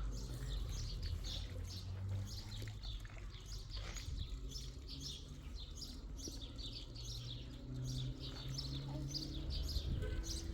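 Small birds chirping rapidly and continuously in many short, high chirps, with a low hum underneath.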